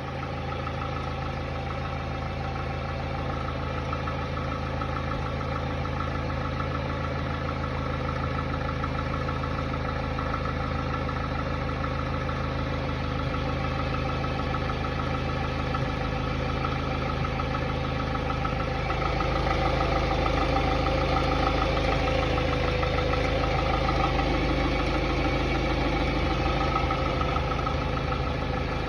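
Hyundai Tiburon's 2.0-litre G4GC four-cylinder engine idling steadily from cold with a knock, which the owner suspects is piston slap; the noise only shows up while the engine is cold. The running gets a little louder about two-thirds of the way through.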